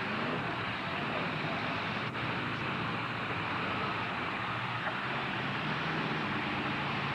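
Demolition-derby truck engines running in a steady, dense din with a low hum underneath; a short click about two seconds in.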